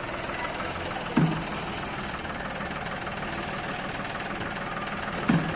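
Diesel tractor engine running steadily, with two short falling-pitch sounds, one about a second in and one near the end.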